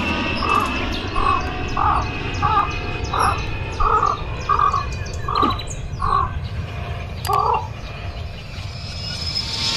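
A run of about a dozen short animal-like calls, evenly spaced at roughly one and a half per second over a steady background hiss, ending a couple of seconds before the end.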